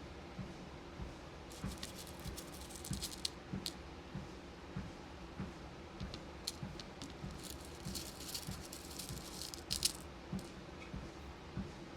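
Small beads rattling and clicking as they are handled and sorted, in two spells of rapid clicks. Underneath are steady footfalls, about two a second, on a walking-pad treadmill, with its motor humming.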